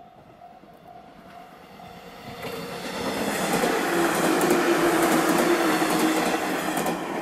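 JR West 115 series electric train approaching and passing close by, growing louder and at its loudest from about three and a half seconds in. Wheels clatter over the rails and a steady motor hum sounds as the cars go past.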